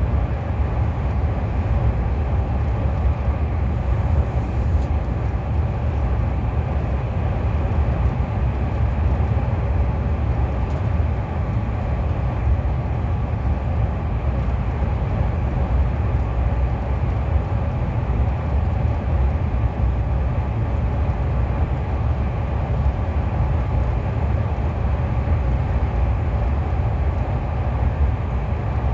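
KTX high-speed train running at speed, heard from inside the passenger cabin as a steady low rumble with a rushing noise over it.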